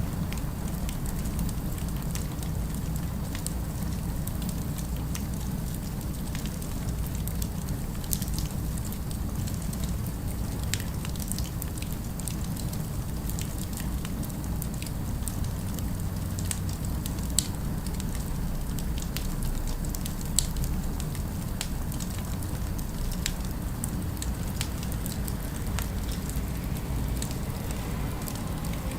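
Fireplace crackling: a steady low rumble with frequent sharp pops and snaps scattered through, a few of them louder.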